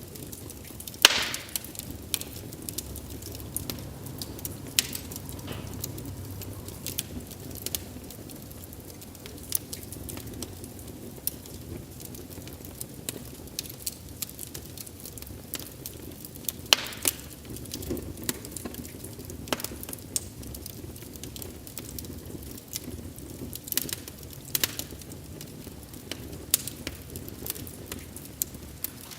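Wood fire crackling: irregular sharp pops and snaps over a low, steady rumble of burning. The loudest pops come about a second in and a little past halfway.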